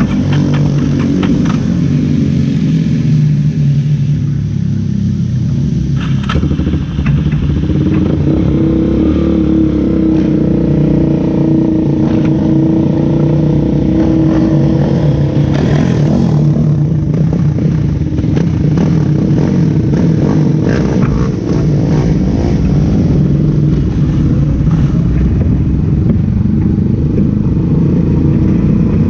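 Race car engine running hard and continuously, its pitch rising and falling as it accelerates and lifts, with a few short rattling knocks.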